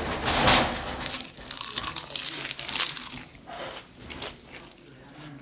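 Close-up biting and chewing of a roasted seaweed (gim) wrap around raw Spanish mackerel: crisp crunches and crackles of the seaweed through the first three seconds, thinning to quieter chewing.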